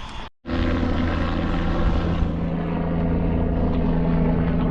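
Steady engine drone: a loud, even hum made of several fixed tones, holding the same pitch throughout.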